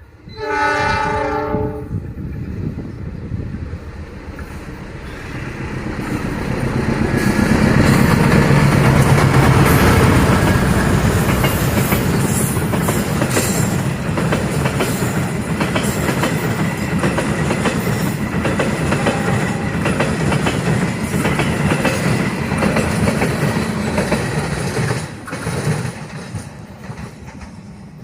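Horn of the KA Papandayan passenger train's diesel locomotive sounding once, briefly, as the train runs straight through the station without stopping. The locomotive's rumble swells to its loudest about eight to ten seconds in, then the coaches clatter steadily over the rails and fade away near the end.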